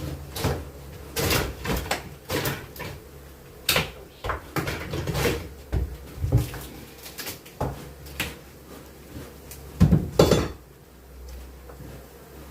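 Irregular knocks, clunks and scrapes of hands-on bee-removal work: tools, wooden hive frames and cut honeycomb being handled. The two loudest knocks come about ten seconds in, over a steady low hum.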